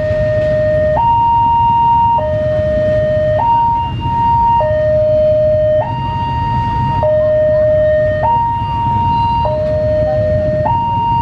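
Level crossing warning alarm sounding a steady two-tone high-low pattern, each tone held a little over a second, warning that a train is approaching. A low traffic rumble runs underneath.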